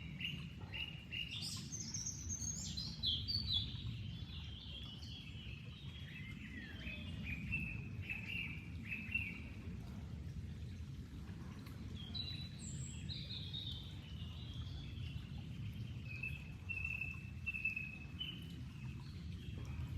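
Birds singing, a run of quick chirps and trills in the first half and again from about 12 seconds in, over a steady low rush of flowing water.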